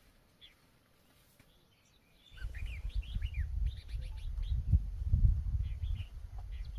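Small birds chirping in quick short calls, starting about two seconds in, over a loud low rumble on the microphone that begins at the same moment.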